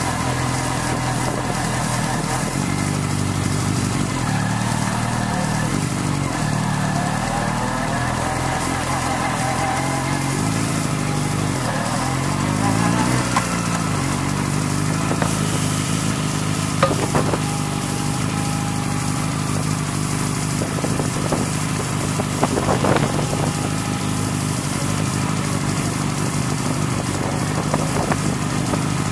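Motorcycle engine running while riding, its pitch rising and falling with the throttle, over a steady hiss. A few short knocks past the middle.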